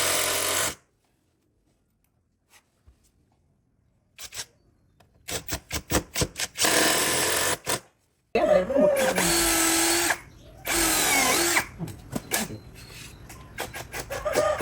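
A power tool, drill-like, running in short bursts of a second or two, starting and stopping. After the first burst it goes silent for about four seconds, then runs in several bursts again with a whine that shifts in pitch.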